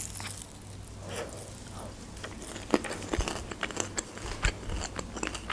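A person chewing a mouthful of deep-fried meat cheburek pastry: soft crunches and scattered small mouth clicks.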